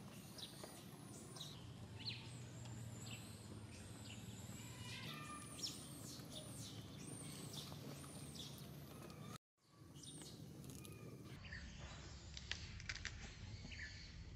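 Birds chirping outdoors: many short, high calls that fall in pitch, over low steady background noise. The sound cuts out for a moment about nine and a half seconds in.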